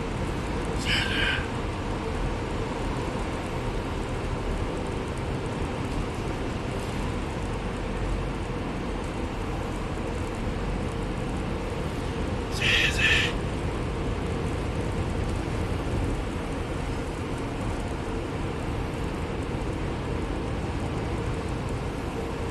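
Steady rumble and road noise of a bus in motion, heard from inside the cabin. Two short high-pitched beeps cut through it, one about a second in and a louder one about thirteen seconds in.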